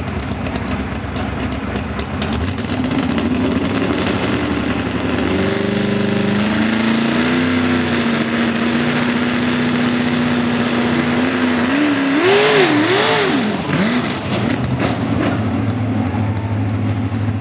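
Pickup truck's engine at full throttle on a pull: the revs climb, hold high and steady for several seconds, then surge rapidly up and down near the end before falling back.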